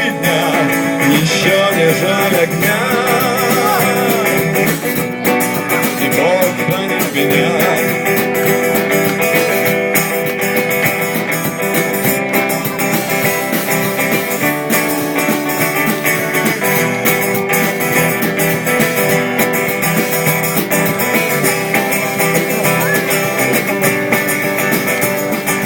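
Live guitar band playing the end of a rock song, with a singer's voice in the first few seconds before the guitars carry on alone.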